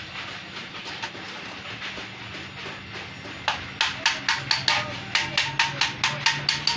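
Hammer striking sheet metal in quick, even blows, about five a second, each with a short metallic ring. The blows start about three and a half seconds in, after a quieter stretch of light tapping, over a low steady hum.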